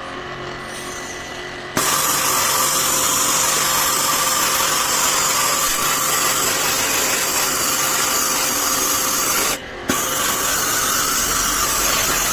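Jet-service pressure washer pump humming, then spraying water onto an air conditioner unit as a loud steady hiss from about two seconds in, stopping briefly near ten seconds before spraying again.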